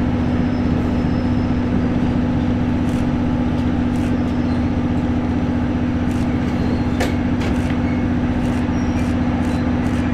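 Running noise of a train heard on board a 12-series passenger coach: a steady rumble with a constant low hum, and a few faint clicks scattered through it.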